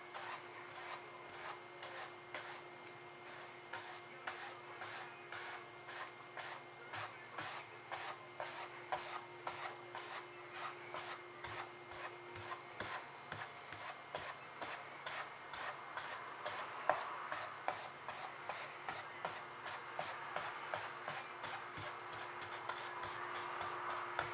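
Paintbrush strokes rubbing across the painting surface: quick, repeated scratchy strokes a couple of times a second, with a faint steady hum underneath that stops about halfway through.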